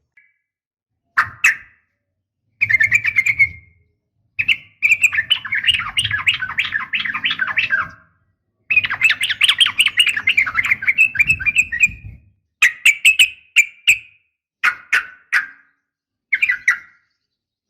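Yellow-vented bulbul (trucukan) calling in bursts of quick, bubbly chattering notes. Short phrases come near the start and end, and two long rapid runs in the middle each last three to four seconds. The recording is offered as a female calling to males.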